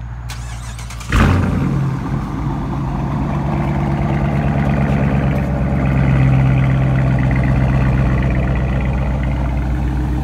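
A 2018 Dodge Charger R/T's 5.7-litre HEMI V8 starts about a second in with a loud flare. It then settles into a steady, deep idle.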